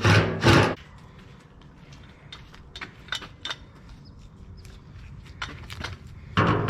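A small power-tool motor runs in several short bursts at the start. Light clicks and taps of metal pieces follow. Near the end a louder sound starts and slowly rings away.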